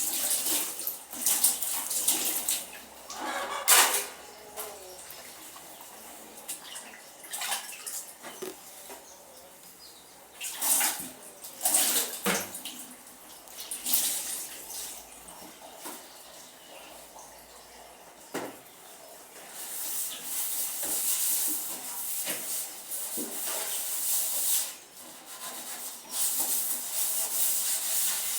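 Dishes and utensils being washed by hand in a basin of water: irregular splashing with sharp knocks and clinks. From about two-thirds of the way in there is a steadier rushing hiss of water.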